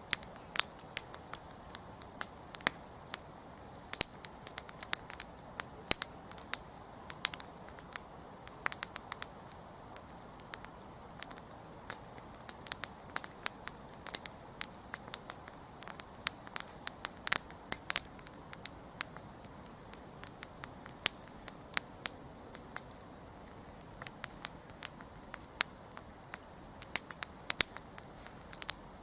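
Wood campfire burning, with many sharp, irregular crackles and pops over a steady low hiss of the flames.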